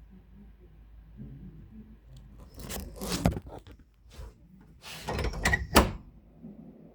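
Two short bursts of clattering and rustling knocks, about two seconds apart, the second ending in one sharp, loud knock.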